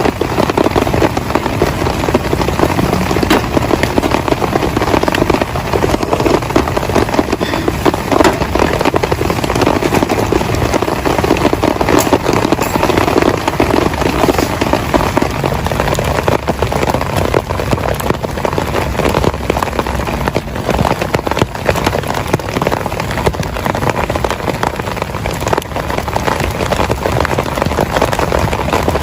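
Heavy rain, a steady dense patter of drops hitting a surface close by.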